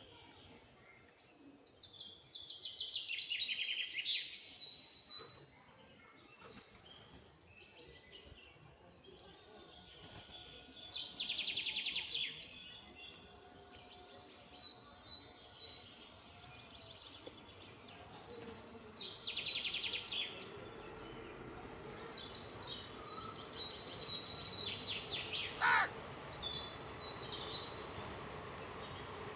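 Birds calling: loud chattering bursts of quick repeated notes about every eight to nine seconds, with softer chirps between them over a steady background hiss.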